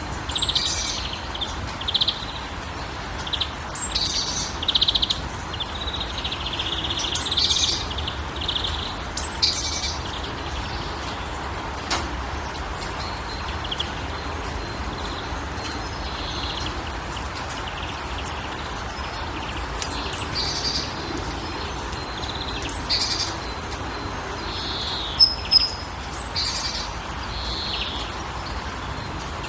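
Songbirds chirping in short clusters of high calls over a steady background hiss. The calls are busiest in the first ten seconds and again in the last third, with a quieter stretch between.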